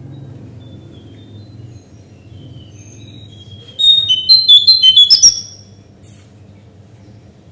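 Cingcoang coklat calling: a few faint high notes, then about four seconds in a loud, rapid burst of sharp chirping notes lasting about a second and a half. A steady low hum runs underneath.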